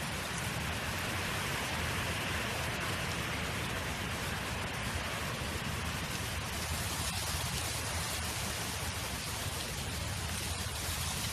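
Steady wind noise: an even rushing hiss over a low rumble, with no gusts or breaks.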